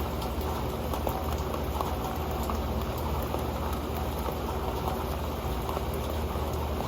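Rain falling onto an old metal pan: a steady, dense patter of drops with scattered sharper ticks where single drops strike the pan.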